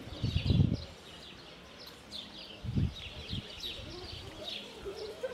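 Small birds chirping over and over, short falling chirps several times a second. Brief low snatches of people's voices come about half a second in and again near three seconds.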